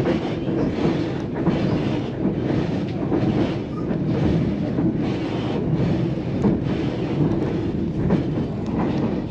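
Passenger coach rolling along the narrow-gauge White Pass & Yukon Route railway: a steady rumble of steel wheels on the rails with a light, recurring clickety-clack.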